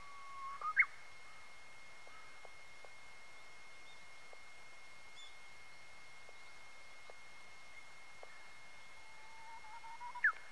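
Japanese bush warbler (uguisu) singing its hoo-hokekyo song twice. Each song is a long, steady whistle that breaks into a quick, sharply rising flourish. The first flourish comes under a second in and the second near the end.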